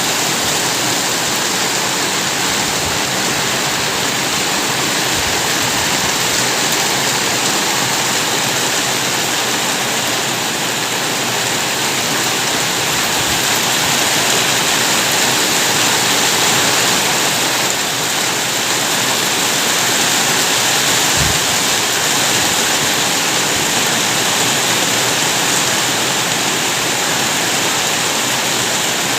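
Rain falling steadily, a dense, even hiss with no single drops standing out.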